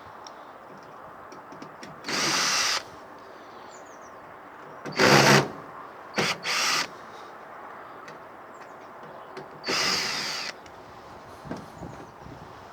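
Power drill driving out screws from the tumble dryer's casing in several short spins, each under a second long. The loudest comes about five seconds in, and two quick spins follow close together.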